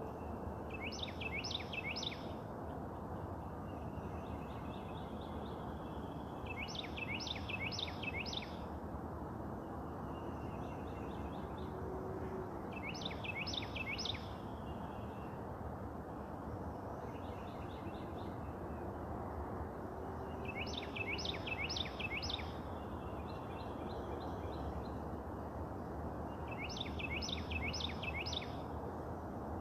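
A songbird singing a short phrase of three or four quick, downward-sweeping notes, repeated about every six seconds. Softer chirping phrases fall between them, over a steady low background noise.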